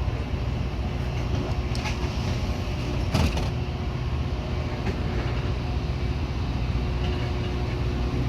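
Steady low rumble of a Metra commuter train, with one sharp knock about three seconds in.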